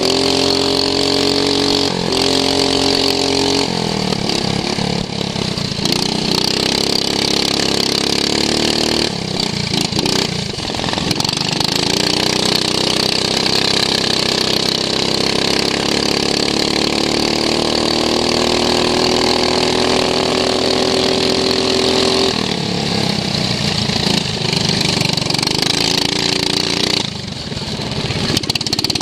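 Racing lawn mower engine heard from onboard at race speed. Its pitch climbs slowly through the middle, drops sharply about two-thirds of the way in, and drops again near the end as the throttle comes off for a moment, all over a steady hiss.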